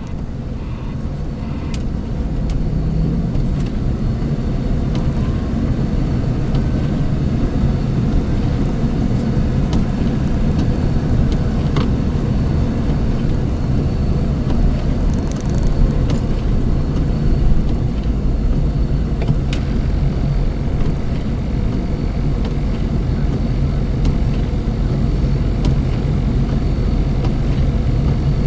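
Heavy snow-removal machinery engine running steadily under load, a deep, constant rumble that builds over the first couple of seconds and then holds.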